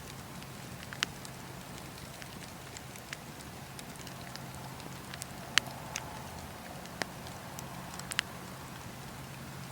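Wood fire burning in a fireplace, a steady low rumble and hiss with sharp irregular crackles and pops, the loudest a few seconds apart.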